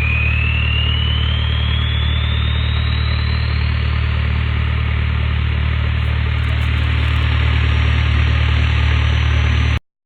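Straight-piped TDI turbo-diesel idling steadily while cold, with a thin turbo whistle rising in pitch over the first few seconds and then holding. The sound cuts off suddenly near the end.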